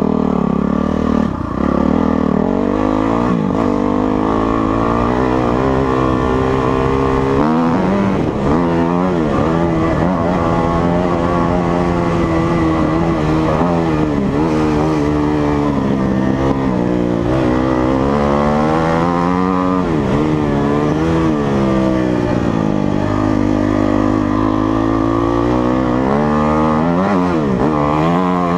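Motocross dirt bike engine running hard, its pitch climbing and dropping again and again as the throttle opens and closes and the gears change.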